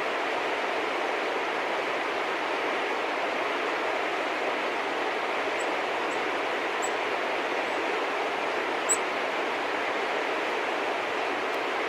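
A steady, even rushing noise throughout, with a few short, high chirps from small birds between about six and nine seconds in; the last chirp is the loudest.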